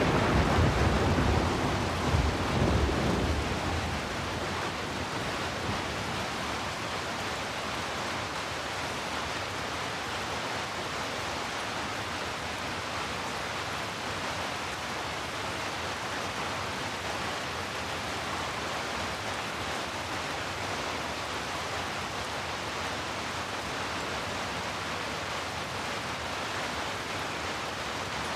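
Heavy rain falling steadily. A thunder rumble, already going as it begins, fades out over the first three or four seconds.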